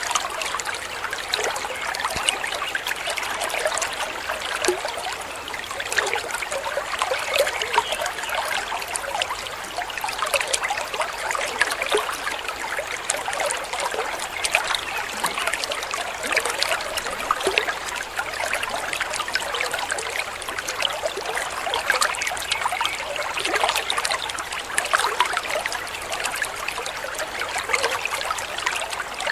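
Steady splashing and trickling of a waterfall.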